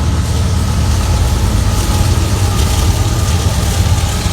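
Diesel-electric freight locomotives working hard at full throttle (notch 8), a loud, deep, steady engine rumble with a faint whine above it, building slightly in the first second.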